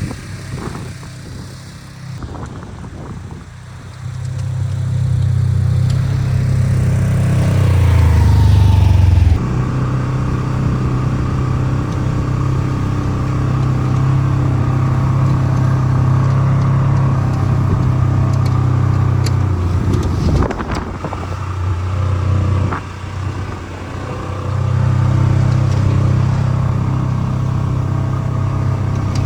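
Polaris General XP 1000 UTV's parallel-twin engine running hard while driving and plowing through deep snow. It revs up over a few seconds early on, holds steady, drops back around twenty seconds in, then pulls up again.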